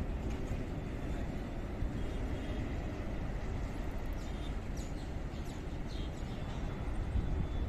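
Steady low rumble of a distant approaching express train. A few short high bird chirps come about four to six seconds in.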